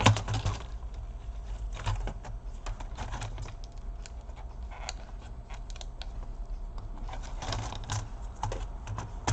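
A Dell Inspiron 1525 laptop keyboard being fitted back and pressed down into place: a run of irregular plastic clicks and taps as the keys and the keyboard's edges snap into the chassis. The sharpest click comes right at the start.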